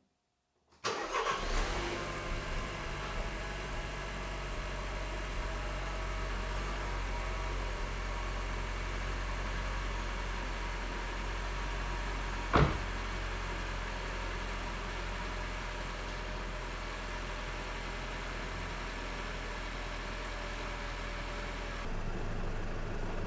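Opel Astra K's 1.4 turbo four-cylinder petrol engine starting about a second in, with a brief flare, then settling into a steady idle through its newly fitted replacement exhaust. A single sharp click comes about halfway through.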